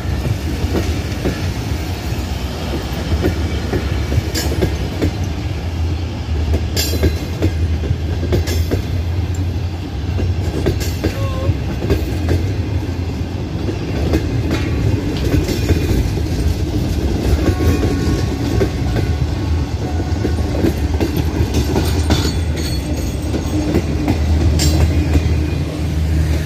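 Passenger train coaches rolling past close by: a steady, loud rumble of wheels on rail, with clickety-clack knocks as the wheels cross rail joints.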